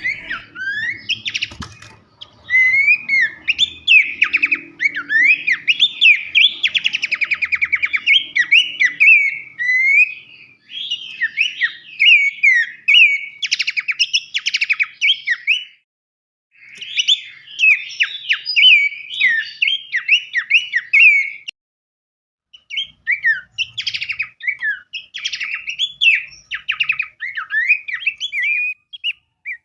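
Songbird song: dense, rapid strings of sharp chirps, sweeping whistled notes and fast trills, broken by two short pauses, about halfway through and about two-thirds through.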